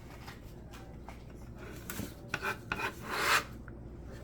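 A knife scraping chopped food across a cutting board, with a few light taps about two seconds in and a short, louder scrape a little after three seconds.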